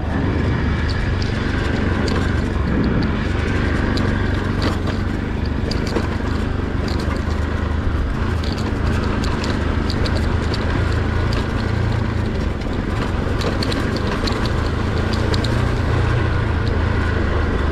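Motorcycle engine running steadily while riding over a rough, potholed road, with scattered clicks and rattles throughout.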